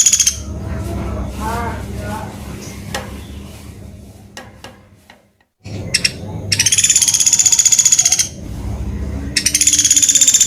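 Pelatuk beras (common flameback woodpecker) giving its fast, high rattling trill, each call lasting about two seconds: one ends just after the start, another comes about six and a half seconds in, and a third begins near the end. Between the calls are softer, lower sounds, with a brief dropout a little after five seconds.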